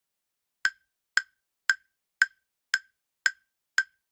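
Countdown timer sound effect ticking evenly about twice a second, each tick a short sharp click, starting a little over half a second in: the clock for answering the quiz question running down.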